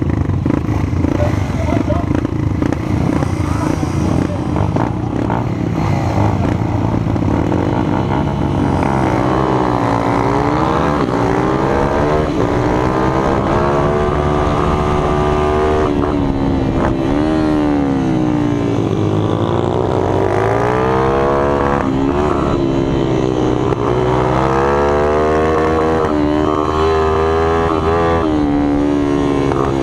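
Minibike engine running hard, its pitch rising and falling again and again as it revs up and backs off. The first several seconds are a rough mixed noise before the engine tone stands out clearly.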